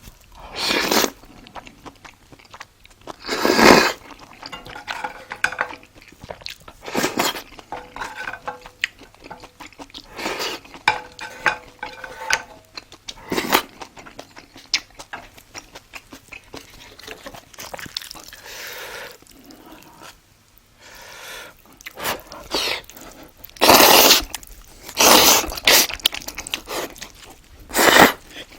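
Close-miked eating sounds: chewing and mouth noises with cutlery clinking against dishes, in irregular loud bursts, with a cluster of the loudest near the end.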